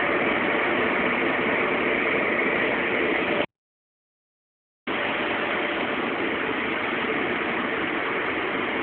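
Steady rushing noise of a car wash at work, water spray and machinery running together. It cuts off abruptly to dead silence a little past three seconds in, and comes back about a second and a half later.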